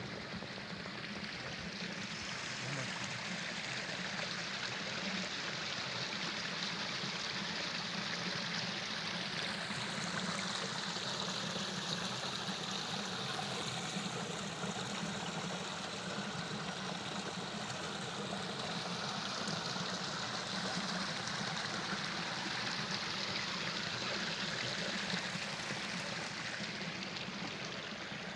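Running water, such as a stream, flowing with a steady rush.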